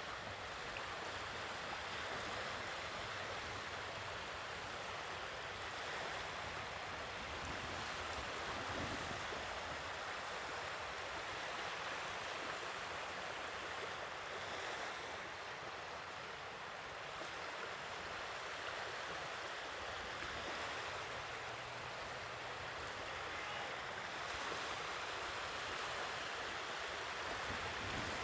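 Sea waves washing on the shore: a continuous rush of surf with only slight swells in level.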